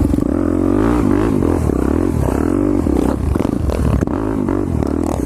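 Motorcycle engine running under riding load, its revs rising and falling over and over as the throttle is worked.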